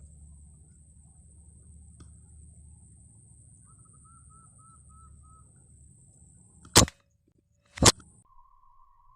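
Two sharp air rifle shots about a second apart near the end.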